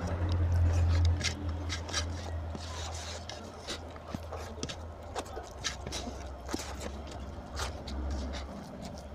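Close-up eating sounds of rice and curry eaten by hand: wet chewing with many short mouth smacks and clicks, and squishing as fingers mix rice on the plate near the end. A low rumble sits under the first second or so.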